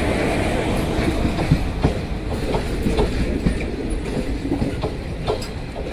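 Passenger train coaches rolling through a station: a steady low rumble of wheels on rails, with irregular clicking as the wheels cross rail joints and points. The sound eases slightly over the few seconds.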